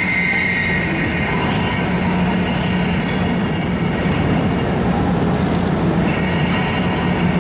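JR East EF64 electric locomotive hauling a sleeper train, rolling slowly into a platform and braking to a stop, with a low rumble and high-pitched steel wheel squeal that shifts in pitch.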